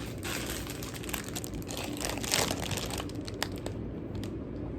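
Plastic wrapper of a packaged concha sweet bread crinkling as it is handled, loudest about two seconds in, followed by a few light clicks.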